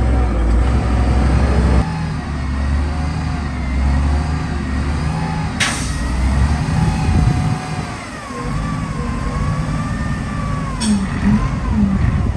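Heavy diesel construction machinery running at work, a deep engine drone that rises and falls, with high wavering squeals over it and a brief sharp sound about six seconds in.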